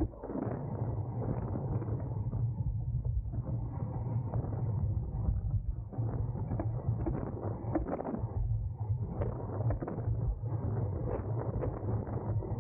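Wind rushing over the microphone and road noise of a racing bicycle at speed, scattered with small clicks and rattles from the bike.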